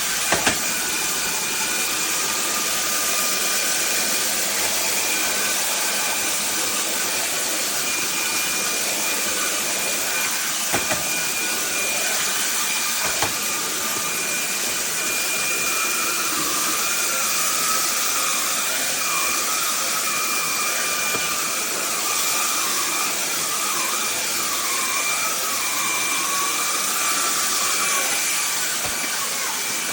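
Fieety cordless stick vacuum cleaner running steadily: a rush of air with a high motor whine whose pitch wavers in the second half. A few light clicks sound early on and around the middle.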